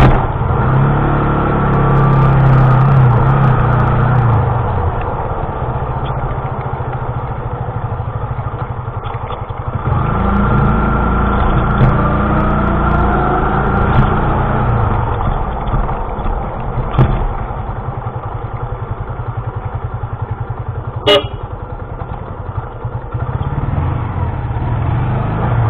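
Motorcycle engine running under a rider on the move, picking up speed twice with a rising pitch, over steady road and wind noise. Two sharp knocks come in the second half.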